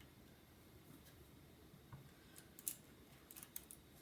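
Near silence, with a few faint, short clicks in the second half from a precision pentalobe screwdriver and tiny screws being handled.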